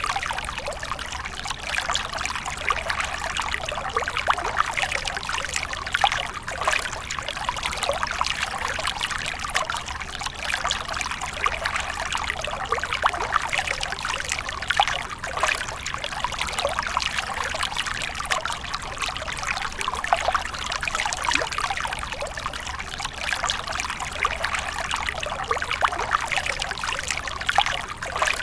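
Water pouring and splashing in a steady, continuous flow, with many small splashes.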